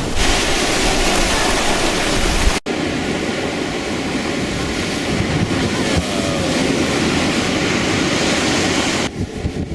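Storm at sea: a loud, steady rushing noise of wind and waves, broken by an abrupt cut about two and a half seconds in.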